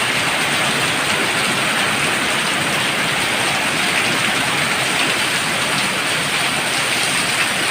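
Heavy rain pouring steadily, an even hiss of drops hitting surfaces.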